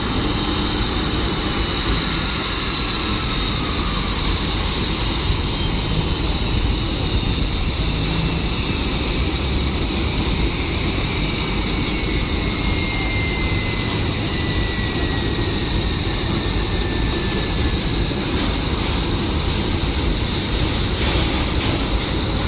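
Boeing 747-400 jet engines whining over a steady rumble, one high whine held steady while another falls slowly in pitch through the second half as the engines wind down at the gate.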